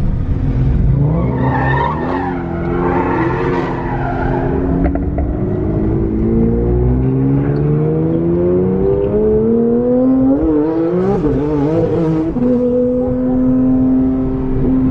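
Twin-turbo Porsche 911 GT3 RS engine pulling hard, heard from inside the car. Its pitch climbs slowly and steadily for about nine seconds, wavers briefly, then holds steady at a cruise.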